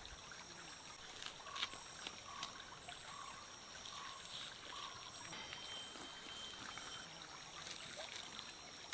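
Faint stream trickling along a river bed, under a steady high-pitched drone, with a few short soft calls in the first half and a thin held tone a little past the middle.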